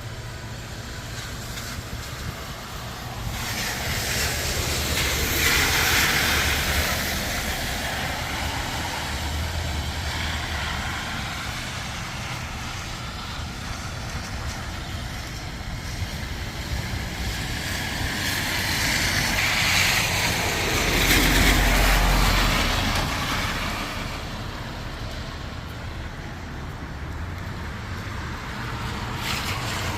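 Vehicles passing on a road: tyre and engine noise swells up and fades away twice, the second pass longer and with a deep rumble at its peak, over a steady background of traffic.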